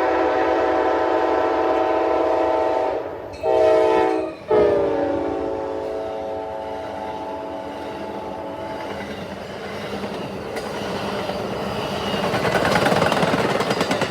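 Amtrak passenger locomotive horn sounding a chord: a long blast, a short blast, then a long blast whose pitch drops as the locomotive passes. The train's rumble and wheel noise then build as the train goes by, loudest near the end.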